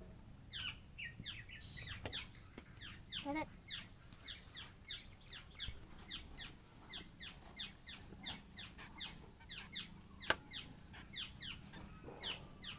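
Small birds chirping steadily: rapid short notes, each sweeping downward in pitch, about three or four a second. A single sharp click comes near the end.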